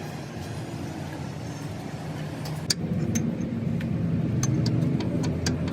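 Low, steady engine rumble that grows louder about three seconds in, with a scatter of sharp metallic clicks and taps over it.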